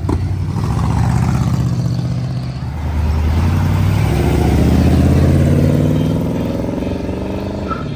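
A car engine accelerating away, its pitch climbing steadily as it revs up, loudest about five seconds in.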